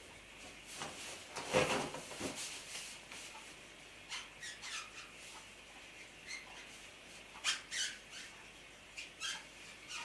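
Oil-based marker pen squeaking in short strokes across the rubber skin of a large balloon, with one longer, louder rub about a second and a half in.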